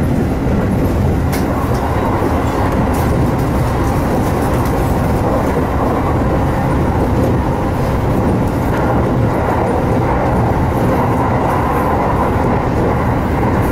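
Steady running noise of a JR Musashino Line electric commuter train at speed, wheels and motors rumbling evenly, heard from inside the carriage.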